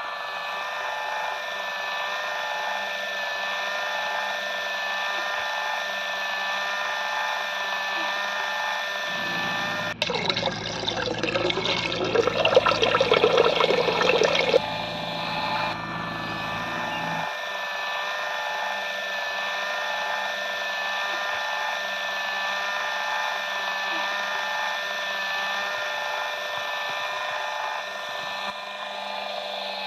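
Small electric motor of a DIY mini brick-making machine running with a steady whine. About a third of the way in, a low hum and a louder, rougher rattling grind join it for several seconds, then drop away, leaving the whine.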